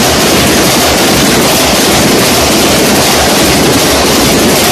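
Passenger coaches passing at speed close by on a steel-girder rail bridge: a loud, steady rushing noise of wheels on the rails.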